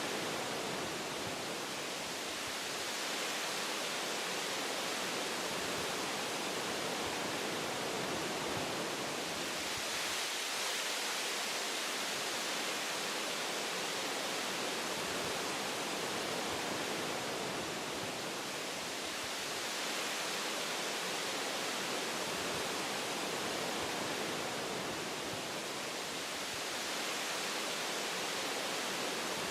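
Wind through forest tree branches, a steady rushing hiss that swells and eases in slow gusts every eight to ten seconds.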